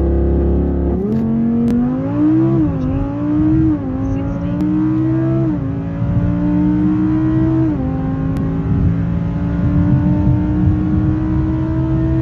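The 5.2-litre V10 of a 2017 Audi R8 V10 plus, fitted with a Quicksilver cat-back exhaust, is held steady at launch-control revs and then launched at full throttle. The revs dip as the drive takes up about a second in, then climb through four quick upshifts of the dual-clutch gearbox, each a sudden drop in pitch, before one long rising pull in the higher gear.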